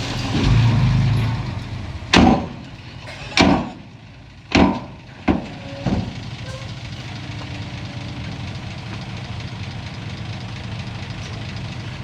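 Heavy diesel earthmoving machinery: a loud, low engine rumble that eases off, then five sharp bangs spaced about a second apart, then the engine running steadily.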